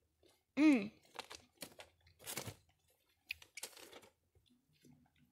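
A child chewing a gummy candy nigiri, with scattered wet mouth clicks and smacks. A short hummed "mm" rises and falls about half a second in.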